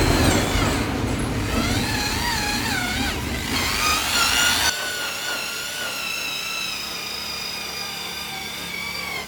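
Electric car polisher whining as it buffs the paint. Its pitch wavers up and down at first, then holds steadier and sinks slightly.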